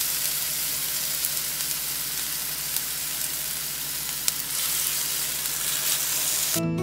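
Chicken cake patties sizzling steadily as they fry in a thin layer of oil in a hot pan, with a few small pops. Acoustic guitar music cuts in just before the end.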